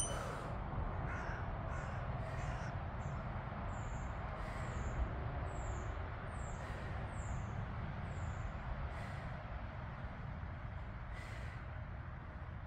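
A bird calling in a series of short, high, falling chirps, over a steady low rumble. Soft puffs of breath come about every two seconds as a 6 kg kettlebell is swung.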